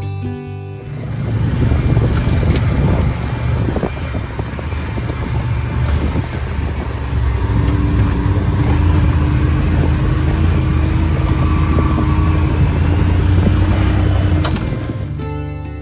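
Quad (ATV) engine running under throttle with rough, rattling ride noise; a steady engine note holds from about halfway in.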